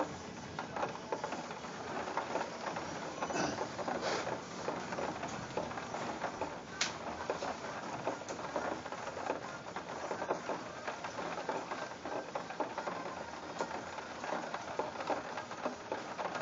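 Heavy rain pattering steadily on a window, a dense crackle of drops with a few sharper taps.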